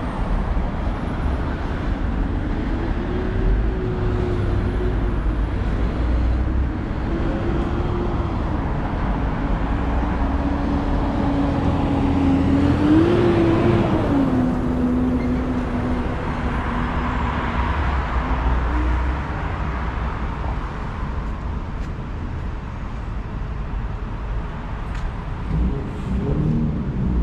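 Street traffic: a steady rumble of engines and tyres, with one vehicle's engine hum that slowly rises and falls in pitch for much of the time. A vehicle passes, loudest about halfway through.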